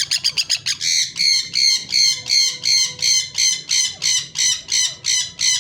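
White Indian ringneck parakeet calling: a quick run of short, harsh screeches, then a steady series of loud squawks at about three a second.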